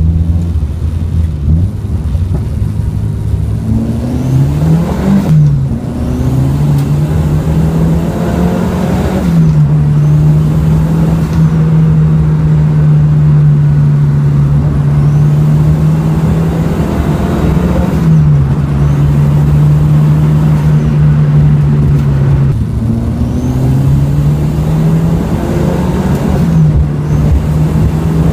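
Peugeot 205 GTi's turbocharged 2.0 8-valve four-cylinder (XU10J2TE, running 14 psi of boost) heard from inside the cabin, pulling through the gears. Its pitch climbs and then drops back at each of several gear changes, with a long steady stretch in the middle.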